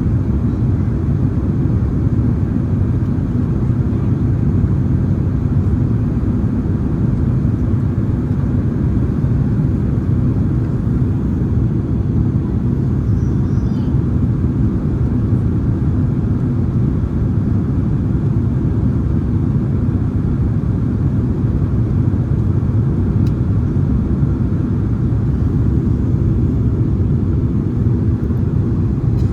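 Boeing 767-300ER in flight, heard from inside the passenger cabin: a steady low drone of jet engines and airflow that does not change in level.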